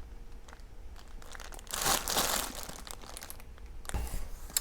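Packaging crinkling and rustling as items are handled and pulled out of an unboxing box, with a louder stretch of rustling about two seconds in and a few light knocks near the end.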